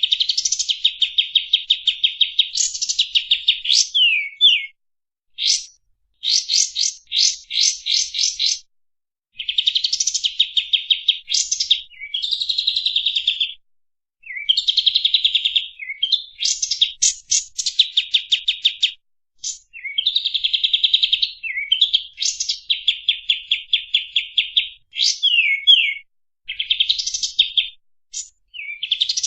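Kapas tembak songbird singing clear, rapid, tightly spaced 'shooting' trills: fast runs of sharp repeated high notes in phrases of a second or two, with short pauses between them and a few sweeping notes mixed in.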